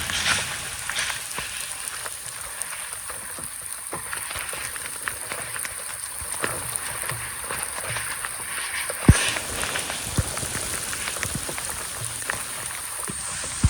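Pattering of water, like rain or drips falling on a surface, dense with small ticks. There is a sharp knock about nine seconds in and a lighter one about a second later.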